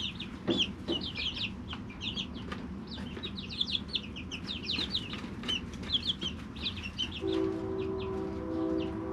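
Three-week-old chicks peeping: many short, high, falling chirps. About seven seconds in, a steady low hum with several tones sets in under the chirps.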